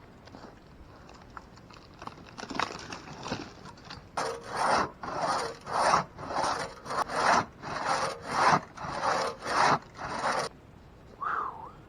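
One-man crosscut saw cutting through a log, in push-pull strokes about two a second. The strokes start light, grow heavier about four seconds in, and stop near the end.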